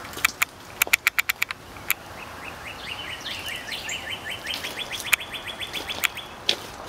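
A songbird trilling: a run of quick, even high notes, about eight a second, lasting some three seconds from about two seconds in. Near the start comes a quick run of sharp clicks.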